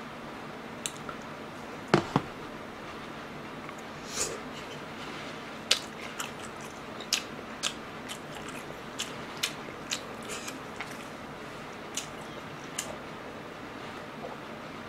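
A man chewing sushi close to the microphone: wet mouth smacks and short sharp clicks scattered through, the strongest about two seconds in.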